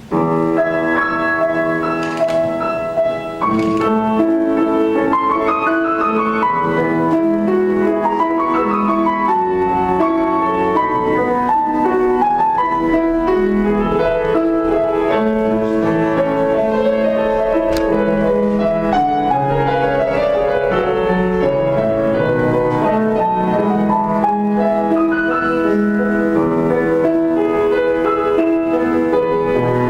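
Solo piano playing a slow piece: held chords with a melody moving above them, starting suddenly at the beginning.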